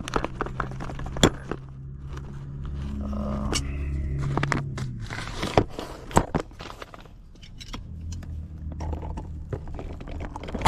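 Scattered clicks, knocks and scraping of small metal parts being handled and pulled out while an old sink faucet is taken apart, over a low steady hum.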